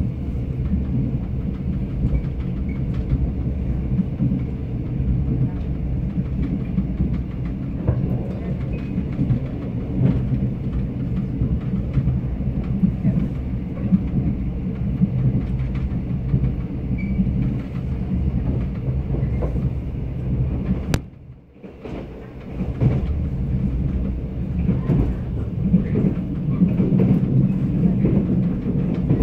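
Mugunghwa passenger train running at speed, heard from inside the coach: a steady low rumble of wheels on the track. The noise cuts out suddenly for about a second about two-thirds of the way through, then returns.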